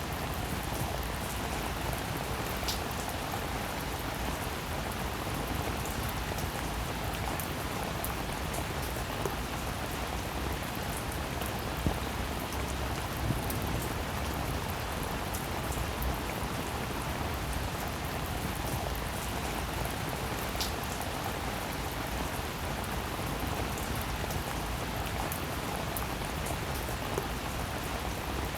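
Steady rain falling, an even hiss with a few separate drops standing out now and then.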